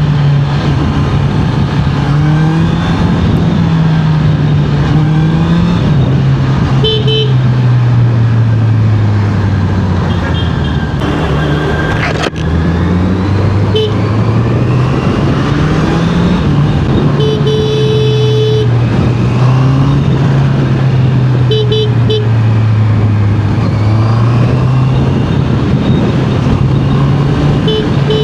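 Honda CBR650R inline-four engine running under way, its pitch climbing and dropping several times with throttle and gear changes, over rushing wind noise. Vehicle horns toot several times: short double beeps and one longer blast near the middle.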